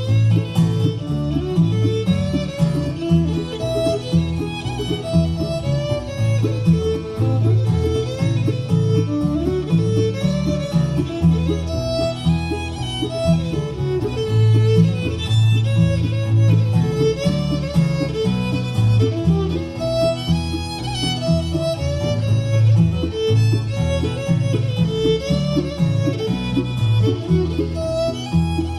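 Live string band playing an old-time fiddle tune: the fiddle carries the melody over guitar and a steady bass.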